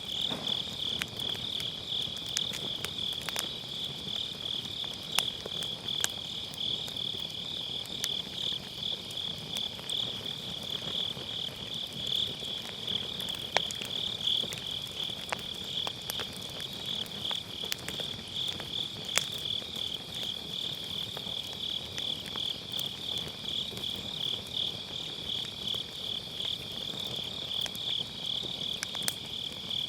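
Night grass insects chirping in a steady, fast-pulsing high trill, over a wood fire in a fire pit that crackles quietly with a few sharp pops from the burning firewood.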